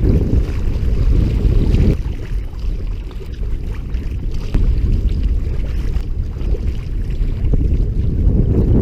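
Wind buffeting the microphone in a loud low rumble that eases a little about two seconds in, with fainter water splashing around a sea kayak.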